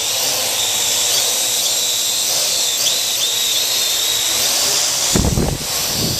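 Parrot quadcopter drone flying close by: the steady high whine of its propeller motors, with a buzzing hiss. About five seconds in, a brief low rumble.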